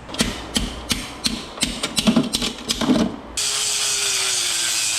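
Metal parts of an electrical cabinet clicking and clacking as they are worked loose by hand, in a quick irregular series of sharp clicks. About three and a half seconds in this gives way abruptly to a steady whirring hiss with a faint, slowly falling tone.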